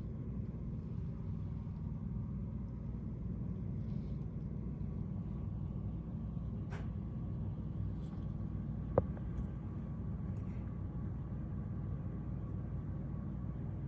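Steady low rumble of city traffic, with a single sharp click about nine seconds in.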